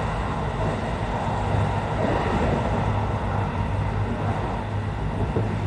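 Cabin noise of a Kintetsu 80000 series "Hinotori" electric limited express running at speed: a steady low rumble of the running train heard from inside the passenger car.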